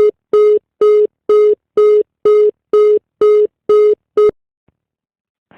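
Telephone busy tone after the call is hung up: one steady beep repeating about twice a second, stopping about four seconds in.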